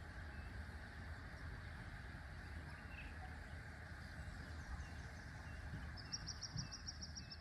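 Faint outdoor ambience after a storm: a steady low rumble with birds calling, ending with a rapid bird trill of about ten quick high notes near the end.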